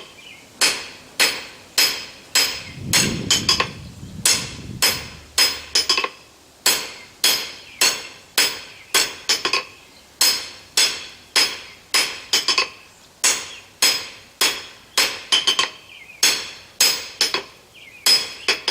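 Blacksmith's hand hammer striking hot steel on an anvil in a steady rhythm of about two blows a second, some in quick pairs, each with a short metallic ring: overlapping blows smoothing a tapered bar.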